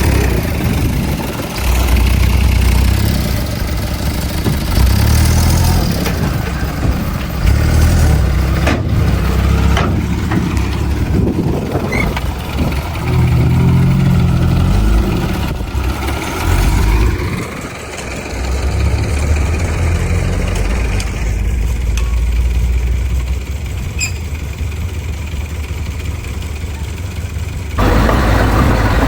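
Heavy diesel earthmoving machinery working: a bulldozer's and dump trucks' engines running with a deep rumble that rises and falls under load, changing abruptly a couple of times.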